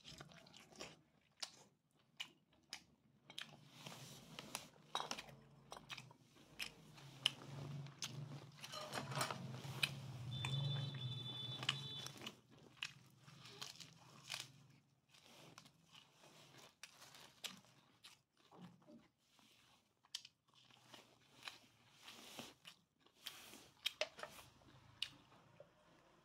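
Close-miked chewing and biting: a person eating grilled duck and fresh herbs, with many short wet clicks and crunches from the mouth, busiest in the middle.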